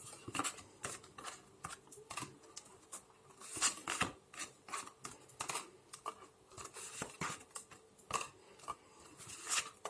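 Tarot cards being handled: irregular short scratchy clicks and rustles, some sharper than others.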